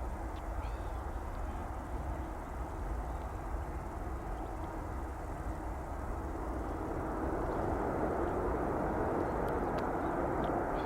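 Jet engine noise from a Boeing 747-400 airliner, a steady rumble that grows louder about seven seconds in.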